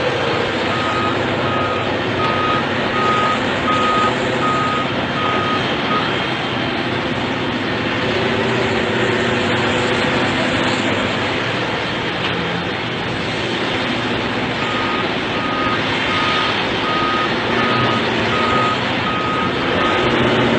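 Reversing alarm of a heavy vehicle beeping about twice a second over the steady noise of its engine. The beeping stops after about six seconds and starts again near the end.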